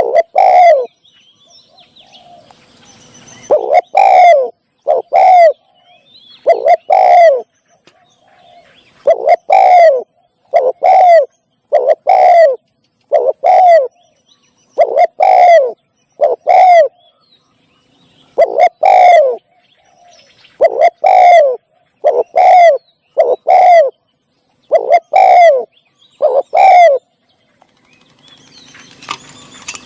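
Spotted dove cooing over and over, loud single and paired coos that fall in pitch, one every second or two. Near the end the cooing stops and a faint hiss with thin high chirps is left.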